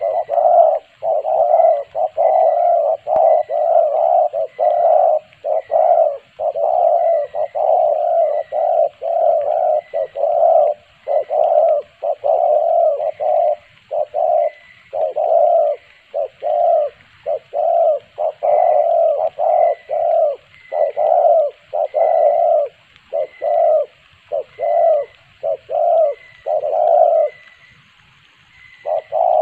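Spotted dove cooing: low coo notes repeated rapidly, about one and a half a second, with a short pause near the end.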